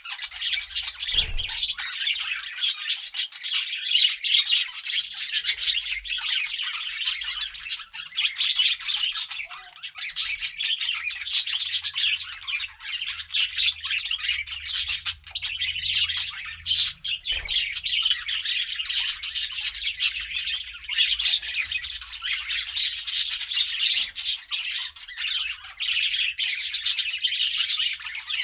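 Budgerigars chattering and warbling continuously in a dense stream of short chirps and squawks, with a soft low thump about a second in.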